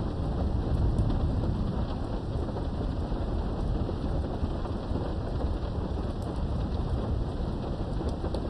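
Steady heavy rain with a low, continuous rumble of thunder, heard from indoors behind a window. A few sharp drop ticks stand out now and then.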